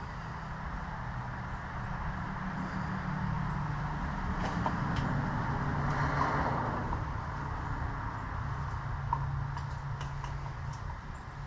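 A motor running with a steady low hum, with a wash of noise that swells and fades about six seconds in.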